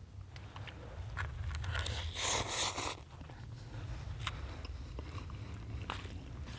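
Camp dinner being eaten from a cooking pot: scattered clicks and scrapes of a utensil, with one louder scrape about two seconds in, over a steady low rumble.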